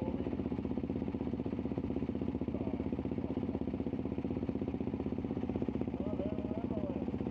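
CFMoto 450MT parallel-twin motorcycle engine running at a steady, even engine speed, with no revving.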